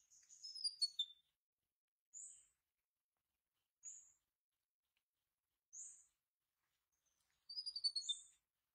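Small bird chirping faintly: single short, very high chirps every couple of seconds, with a quick falling twitter about half a second in and another near the end.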